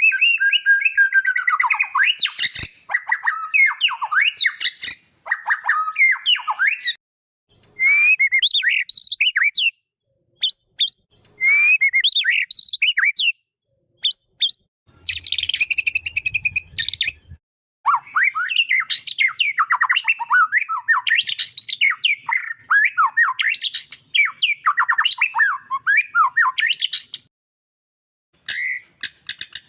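White-rumped shama (murai batu) singing rapid, varied whistled phrases, broken by short stretches of dead silence. About halfway through comes a harsh, rasping burst.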